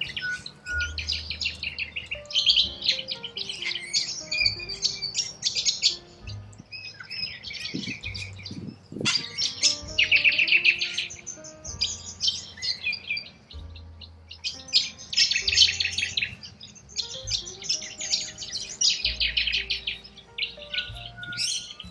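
Wild birds chirping and chattering in rapid, trilling bouts that come and go, over background music with a slow melody and low bass notes.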